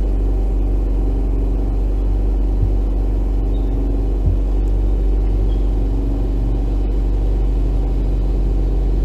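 All-terrain vehicle engine running steadily with a deep, even drone, with a couple of light knocks early on.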